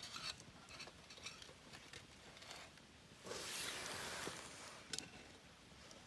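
Faint scattered clicks and rustling, with a short swell of rustling noise a little past the middle, like small camp gear being handled.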